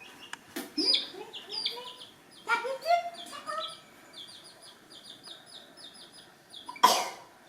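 Chicken clucking in short low calls, with a run of quick high chirps at about four a second through the middle. A loud, sharp noisy burst comes near the end.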